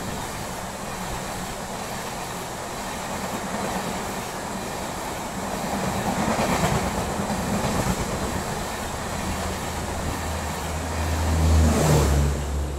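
Express train of LHB passenger coaches running past at speed: a steady rush of wheel and air noise that swells twice, with a low hum as the last coach passes near the end, then falls away.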